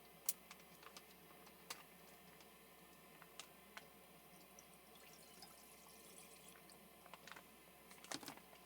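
Near silence with a faint steady hiss, broken by scattered small clicks and taps: a sharp click just after the start, a few more through the middle, and a quick cluster near the end.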